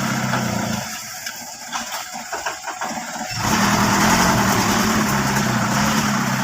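Old dump truck's engine drops away about a second in, followed by a couple of seconds of irregular clicking, then the engine catches again at about three and a half seconds and runs steadily and louder.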